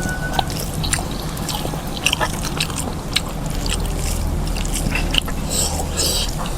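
Close-miked eating: chewing and wet mouth smacking on pork and rice, with irregular small clicks and a couple of short hissing intakes near the end.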